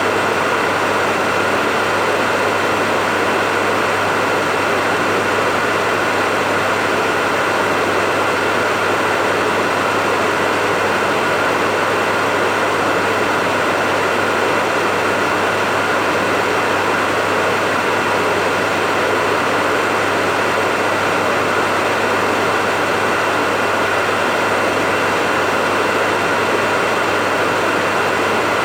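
Hair dryer running steadily, a constant rush of blown air with a steady motor hum and a fainter high tone in it, unchanging throughout.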